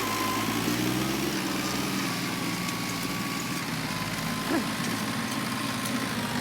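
John Deere 5210 tractor's three-cylinder diesel engine running steadily under the pull of an 18-disc harrow, with a thin steady whine above it. Its note dips slightly about a second and a half in, and there is one short sound at about four and a half seconds.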